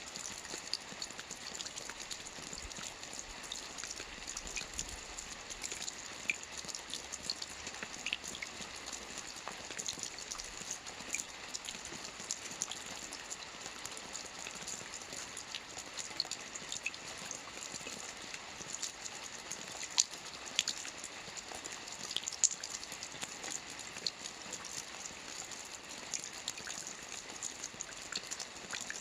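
Light, steady rain: a soft even hiss with many separate drops ticking on a surface, no thunder.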